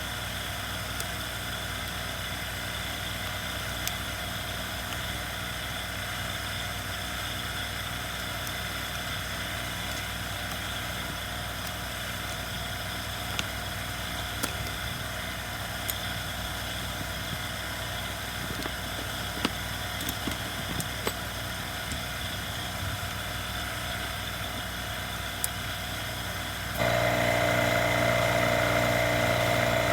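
A steady background machine hum with a few faint clicks and taps of small parts being handled. Near the end, a louder, higher hum switches on abruptly, runs for about four seconds, and cuts off.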